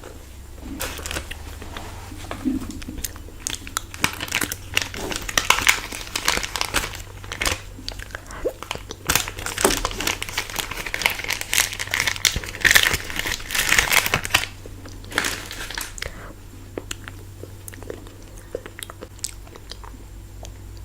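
Close-up crinkling of an ice cream wrapper mixed with crunching bites and chewing. The crackling is busiest in the middle and dies down for the last few seconds.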